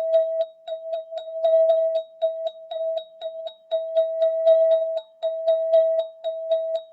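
Golden ZenTube sound-healing instrument struck rapidly, about four strikes a second, on one ringing pitch that sustains between strikes.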